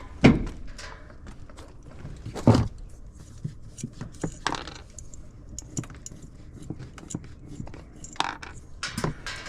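Clinking and knocking of metal parts and tools being handled. There are two sharper knocks, about a quarter second and two and a half seconds in, and scattered lighter clicks throughout.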